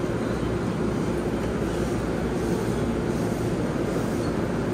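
Steady low hum from a JR Nambu Line electric commuter train standing at the platform, its onboard equipment running.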